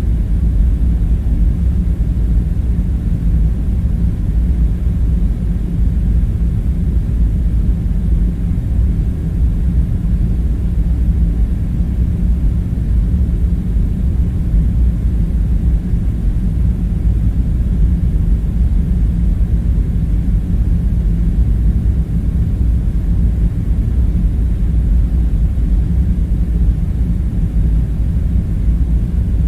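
Steady low rumbling drone that neither rises nor falls, with no knocks, clinks or other single sounds over it.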